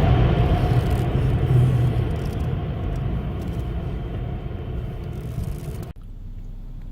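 Automatic tunnel car wash machinery heard from inside the car, a loud steady rushing noise with a low hum that gradually fades, then cuts off abruptly about six seconds in, leaving a quieter low hum of the car.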